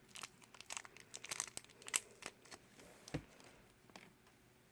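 Plastic blind-bag wrapper crinkling and tearing as it is opened by hand, in a quick run of small crackles, with one soft low thump about three seconds in before it quietens.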